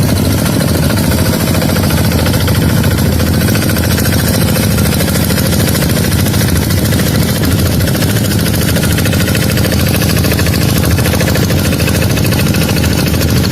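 Tractor engine running steadily at a constant speed, loud and unchanging throughout.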